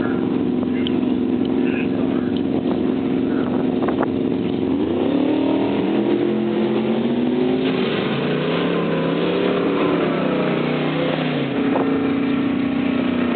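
Drag-racing car engines running at a steady pitch, then revving, with several pitches rising and shifting from about five seconds in until near the end, when they settle back to a steady sound.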